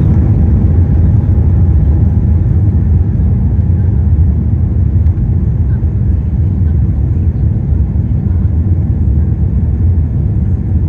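Airbus A380 cabin rumble heard from inside the economy cabin: a loud, steady low drone that eases a little toward the end.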